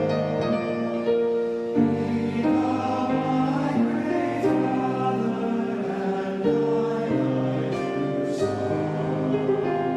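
Youth choir singing a hymn arrangement in held chords that move from one to the next without a break.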